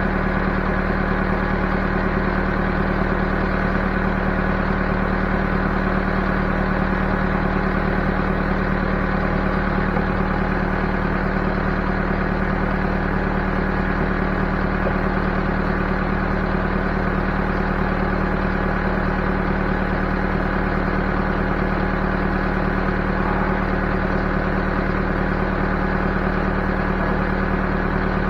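Backhoe engine running steadily at a constant speed, an even drone with no change in pitch or level.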